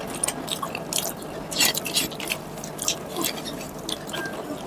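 Chewing of rice and chicken curry: many short, wet mouth clicks and smacks scattered irregularly.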